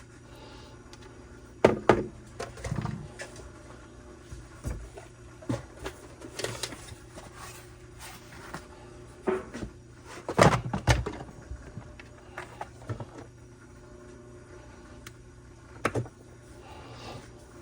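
Scattered knocks, clicks and rustles of a string trimmer's parts and hand tools being handled on a workbench, with the sharpest knocks about two seconds in and again about ten seconds in.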